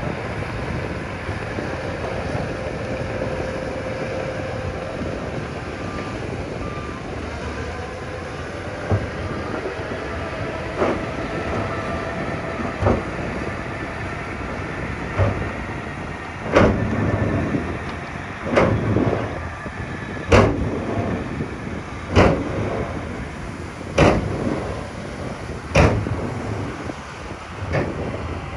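Heavy earthmoving machinery running steadily. From a little past halfway, a series of sharp loud knocks comes at a regular pace, about one every two seconds, seven in all.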